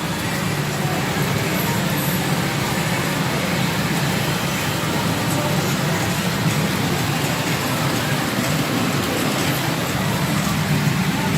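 Steady loud din of a pachinko parlor: many pachinko machines running at once, with no break or change.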